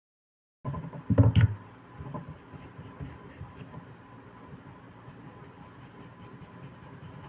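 A few loud knocks about a second in, then steady background hiss with small scattered clicks.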